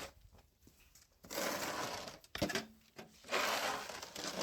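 A snow shovel scraping wet, heavy snow off the pavement, two strokes with a short knock between them.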